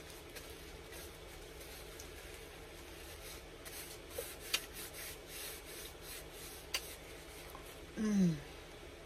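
Close-up eating sounds of a person chewing a taco: soft rustly mouth noise with a few sharp clicks. About eight seconds in comes a short falling "mmm", the loudest sound.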